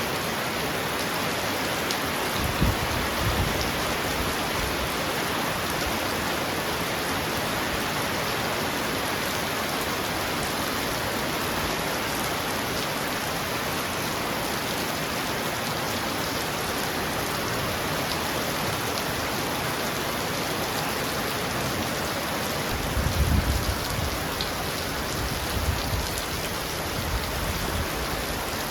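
Heavy rain falling steadily on a roof, an even hiss of drops. Low rumbles of thunder come about three seconds in and again for the last few seconds.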